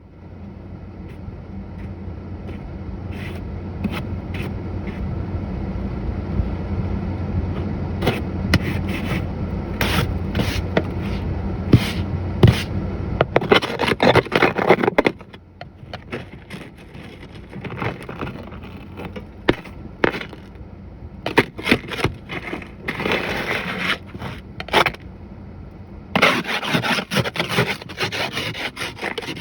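Snow being scraped and brushed off a pickup truck, heard from inside the cab as repeated separate scrapes. Under the first half runs a steady low rumble with scattered clicks, which cuts off suddenly about halfway through.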